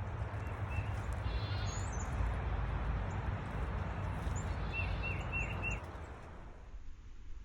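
Small birds chirping at a backyard feeder over a steady low rushing noise, with a quick run of four short falling chirps about five seconds in. The rushing noise drops away about six seconds in.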